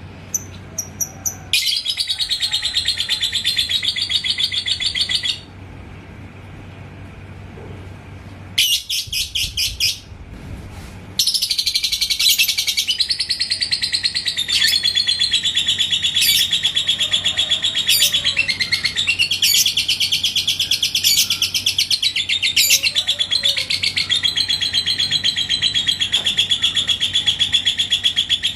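Lovebird singing its 'ngekek': a long, rapid, even-paced chattering trill. It comes as a burst of a few seconds, then a short burst, then runs on unbroken from about eleven seconds in.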